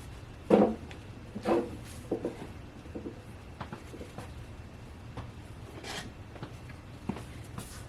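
Short knocks and clatters of hands working plastic engine-bay parts and clips, two louder knocks in the first two seconds and fainter taps after.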